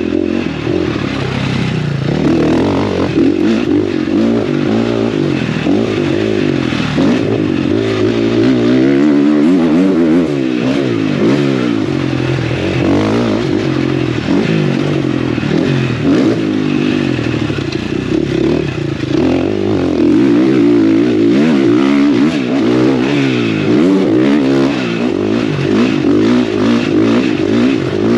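Motocross bike engine running hard, its pitch rising and falling over and over as the throttle is opened and closed.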